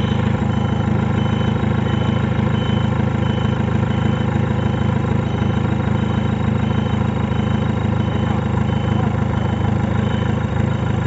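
Off-road 4x4 vehicle's engine running at a steady low drone, with no revving.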